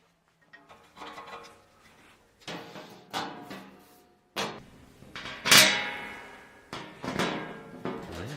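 A series of knocks and clunks from objects being handled and set down, about nine in all, the loudest a little past halfway.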